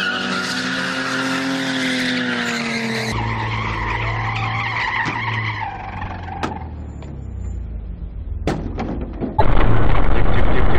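A car engine revving with tyres skidding. It is followed by quieter steady road noise with a few sharp knocks, then an abrupt switch to a loud steady rush of noise about nine seconds in.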